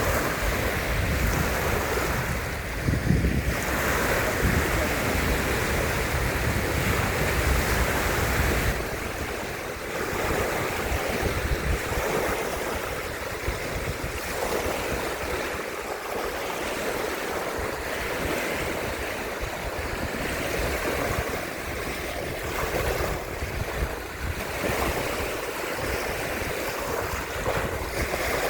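Sea waves washing on the shore in a breeze, with wind buffeting the microphone as a low rumble that is strongest for about the first nine seconds and then eases.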